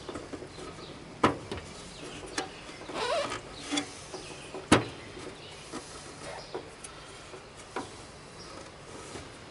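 Scattered clicks and knocks from handling and fitting lawn tractor hood and grille parts, with two sharper knocks, one about a second in and one near the middle.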